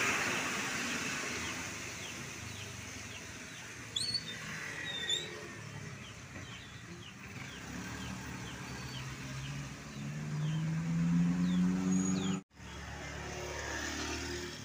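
A vehicle passes and its tyre noise fades away. A bird chirps a few times, then a truck engine draws near with its pitch rising. The sound cuts out for a moment just before the end.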